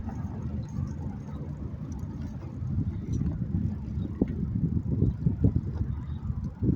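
Low, gusting rumble of a bicycle ride picked up by the microphone, with a few short knocks in the second half.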